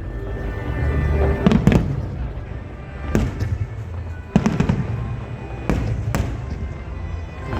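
Fireworks shells exploding, a sharp bang about every one to two seconds with some in quick pairs, over a continuous low rumble of the display; music plays faintly underneath.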